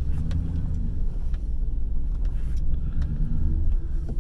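Vehicle engine running at low speed, with a steady low rumble, as it backs up to a dumpster.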